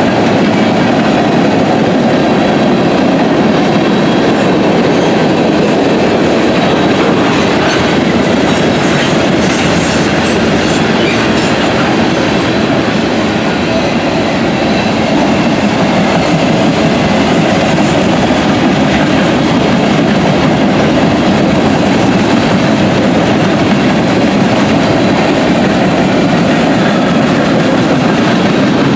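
Train cars rolling past on the rails: a steady, loud rumble of wheels on track with clickety-clack over the rail joints.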